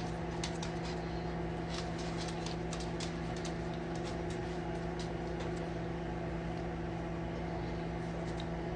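A steady hum from a running appliance or fan, with faint, irregular small clicks of a pet bird eating.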